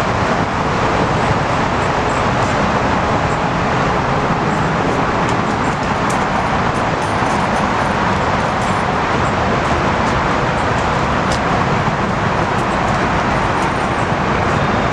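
Steady road and traffic noise, loud and unbroken, with no single vehicle standing out.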